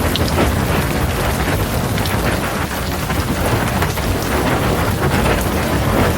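Heavy rain pouring steadily in a thunderstorm, with a continuous low rumble of thunder underneath and scattered drops ticking.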